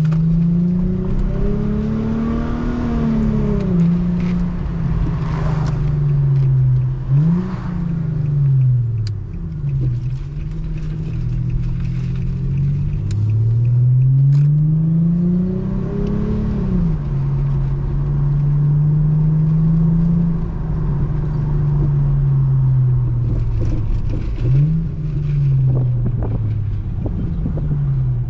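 Muffler-deleted Infiniti G35's VQ35HR V6 exhaust under manual shifting. The engine note climbs, then drops at each gear change. It sits steady for a few seconds while cruising, and a couple of quick throttle blips rise and fall sharply.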